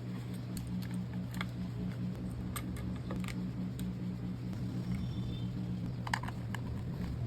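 Steady low hum of a refrigerator running, with scattered light clicks and taps over it, a few more about six seconds in.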